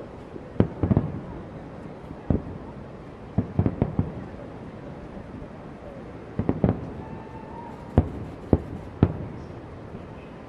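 Aerial fireworks going off in a display: loud sharp bangs in irregular clusters, several in quick succession, with pauses of a second or two between groups, over a steady background rumble.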